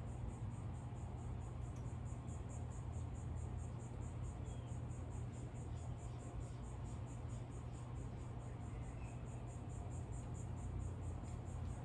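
An insect's high, evenly pulsing trill, about four pulses a second without a break, over a steady low hum, with a few faint short chirps.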